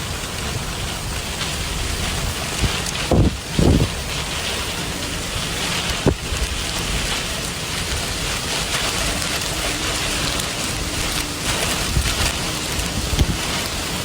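Heavy rain falling in a steady hiss, with a few brief dull thumps about three to four seconds in and occasional sharper knocks.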